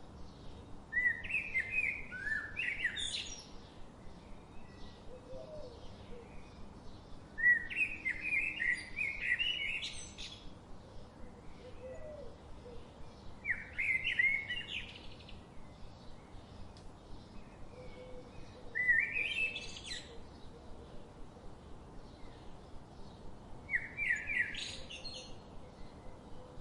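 A bird singing: a short phrase of quick rising and falling notes, repeated five times about every five to six seconds over a faint steady background hiss.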